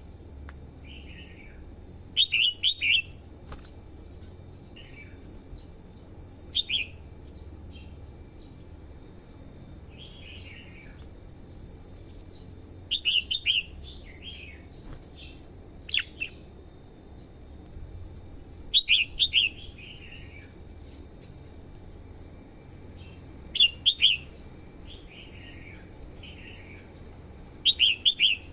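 Red-whiskered bulbul singing short, bright phrases of a few quick notes every three to five seconds, with softer falling notes between them. A steady high-pitched whine runs underneath.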